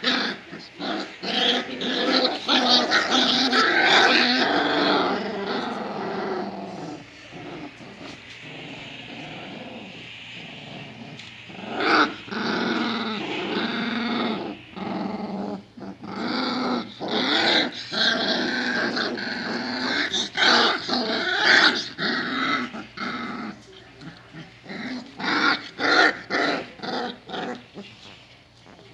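Rottweiler puppies fighting, growling in bouts with brief pauses.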